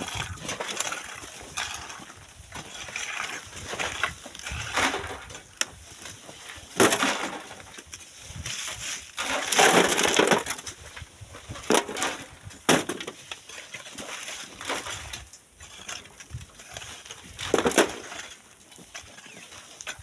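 Shovels digging into gritty sand and stones: irregular crunches and scrapes, with a few sharp knocks and one longer, louder crunch about halfway through.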